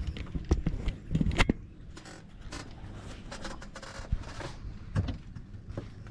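Knocks, clatter and scraping of fishing gear being handled aboard a boat, with the loudest knocks about a second in and again near the five-second mark, over a steady low hum.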